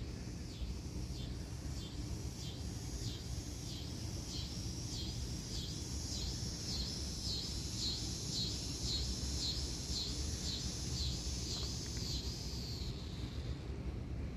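A bird calling a long, even series of high, down-slurred notes, about two a second, that stops near the end, over a steady low rumble of wind or distant traffic.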